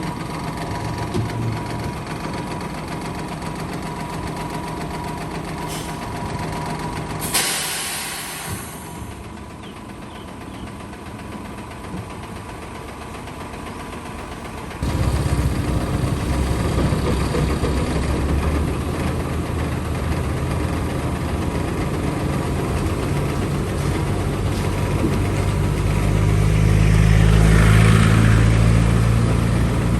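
Diesel engine of heavy earth-moving machinery running steadily, with a short loud hiss about seven seconds in. About halfway through the sound jumps abruptly to a louder engine that builds up near the end.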